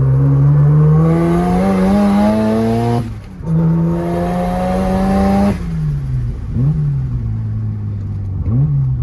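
Turbocharged Mazda RX-7 FC rotary engine accelerating hard. The revs climb for about three seconds, dip briefly at a gear change, and climb again with a high hiss on throttle. Then the revs fall away as the throttle lifts, with two short throttle blips near the end.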